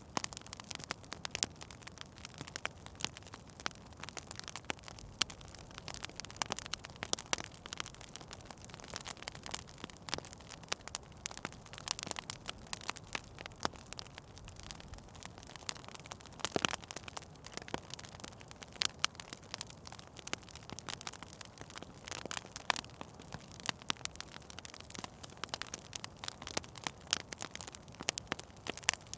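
Wood fire in a fireplace crackling, with irregular sharp pops and snaps over a soft steady hiss; one louder pop comes about halfway through.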